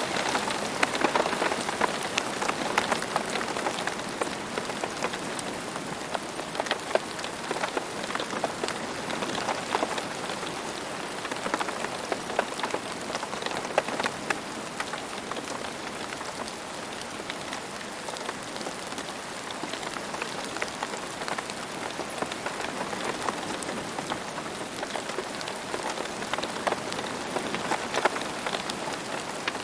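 Steady rain falling on the ground: a dense hiss made of many separate drop impacts, with no let-up.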